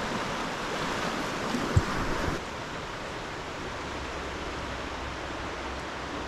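A swollen river rushing steadily, running high with spring floodwater. There is a brief knock a little under two seconds in, and about two and a half seconds in the rushing suddenly turns duller and quieter.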